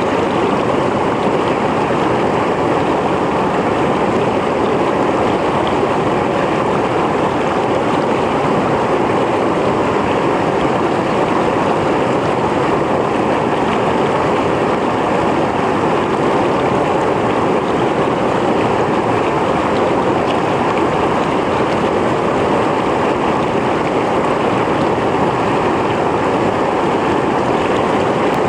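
Mountain stream flowing over rocks, a steady rush of water without let-up.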